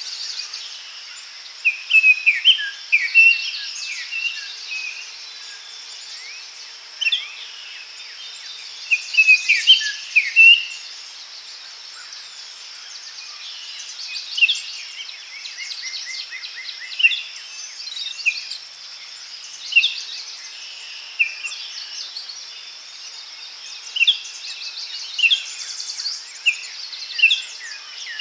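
Forest birds singing: many short chirps and trills coming and going, over a steady high hiss of insects.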